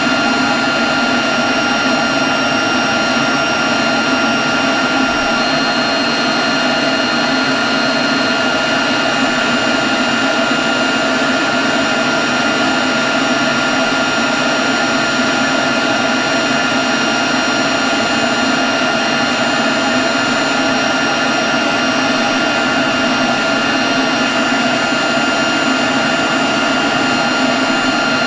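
Leaf blower running steadily at constant speed: a rush of air with a steady high-pitched whine on top.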